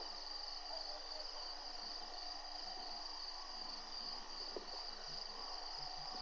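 Insect chorus: a steady, high-pitched trilling that does not change, with one faint click about four and a half seconds in.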